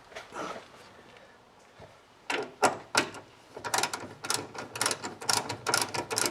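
Manual window crank on a 1985 GMC truck door being turned to wind the glass down. After a few separate knocks, the regulator gives a fast rhythmic mechanical clatter of about four or five strokes a second.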